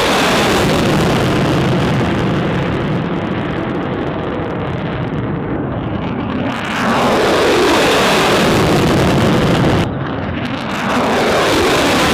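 Military fighter jet engines running loud, with a rushing noise and falling sweeps in pitch as the jet passes. The sound changes abruptly a couple of times.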